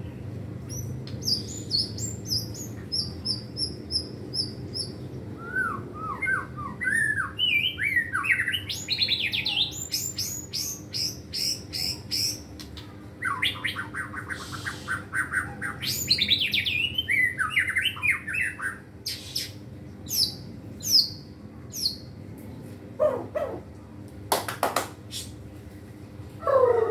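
Young white-rumped shama singing a varied song of whistled phrases, sliding notes, rapid runs and sharp short calls, with brief pauses between phrases. The song is packed with mimicked fill-in phrases, typical of a young bird learning to sing continuously.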